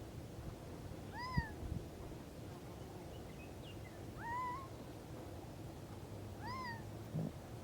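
A bird calling three times, each a short arched, meow-like note that rises and falls, a few seconds apart. A low knock comes after the first call.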